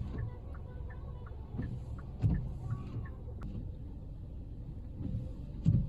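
Low, steady rumble of a car driving, heard from inside, with a few faint clicks and two soft thumps, about two seconds in and near the end.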